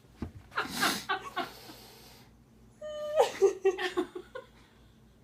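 Excited, breathy laughter from people reacting to a surprise, in two bouts: one about half a second in and another from about three seconds in.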